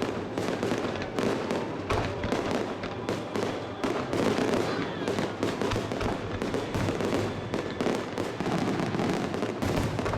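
Fireworks display: a dense, unbroken run of crackling bursts, several a second, with a few deeper booms among them.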